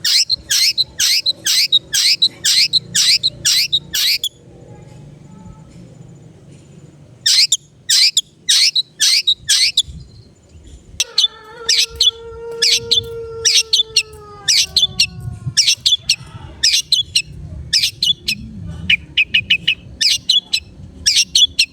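Long-tailed shrike (cendet) giving runs of short, harsh, high calls, about two to three a second, in several bursts with short pauses between them. A long, lower drawn-out tone that falls slightly at its end sounds under the calls about halfway through.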